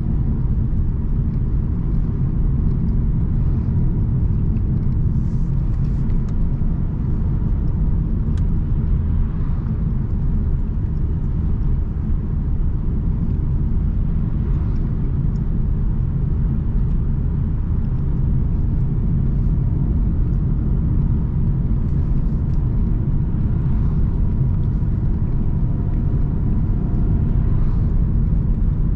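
Car driving at a steady pace: a steady low rumble of engine and tyres on the road.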